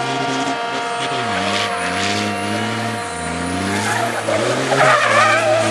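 Race truck diesel engines running hard, their pitch dropping and climbing again several times as the trucks brake, shift and accelerate. A louder wavering higher sound comes in near the end.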